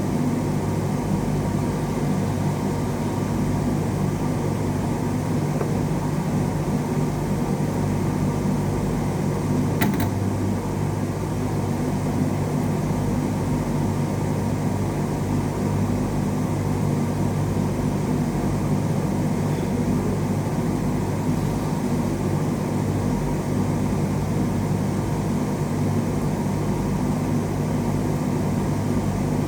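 Steady machine hum with a low buzz, unchanging throughout, and one sharp click about ten seconds in.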